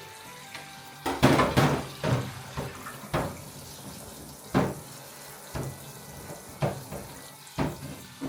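Water running at a kitchen sink tap, with a string of sharp knocks about once a second as things are handled in the sink.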